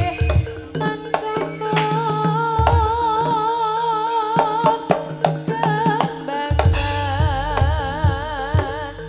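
Jaranan gamelan accompaniment: hand-drum strokes and held gong-like tones under a high melody line with a strong, wavering vibrato. The deep drum beats drop out for a few seconds in the middle and then come back.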